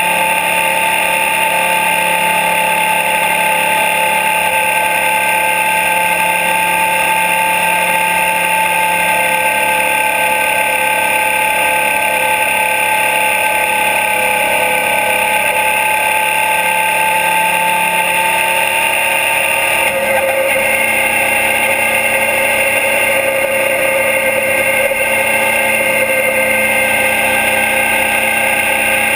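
2012 Suzuki DL650 V-Strom's 645 cc V-twin engine running steadily at cruising speed, heard from right beside the engine. About two-thirds of the way through its pitch drops and stays lower.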